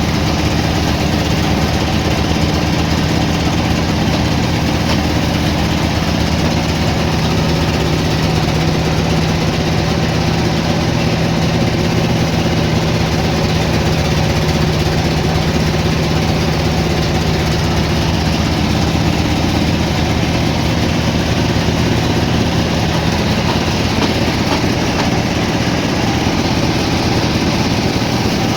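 An engine running steadily at an even speed, with a constant hum and no changes in pace.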